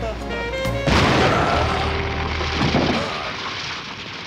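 Car bomb explosion in a film scene: a few notes of music, then about a second in a sudden loud blast that rumbles on and slowly dies away.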